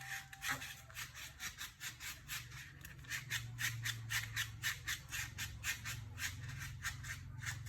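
Colored origami paper rustling and crinkling in the hands in a string of short, soft strokes, about three or four a second, over a faint low hum.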